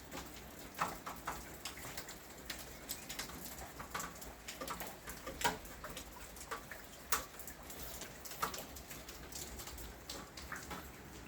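Rain falling, with raindrops hitting hard surfaces as irregular sharp ticks and drips, several a second, over a faint steady hiss.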